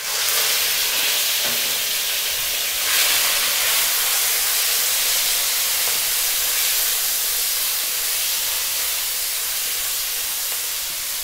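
Strips of raw chicken breast dropped into hot oil in a wok, sizzling steadily as the wok fries them; the sizzle swells briefly about three seconds in.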